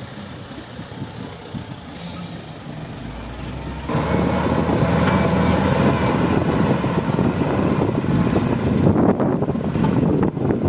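Heavy diesel earthmoving machinery working: a wheel loader and dump trucks running, quieter at first, then much louder from about four seconds in as engines come up under load.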